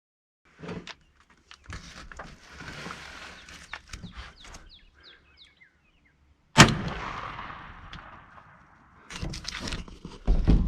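A shotgun fires a single shot about six and a half seconds in, sharp and loud with a long fading echo. Before it come soft rustles and a few short high chirps. Near the end there are heavy low thumps and rustling.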